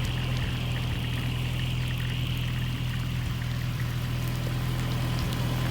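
Van engine running steadily: an even low hum with a steady hiss over it.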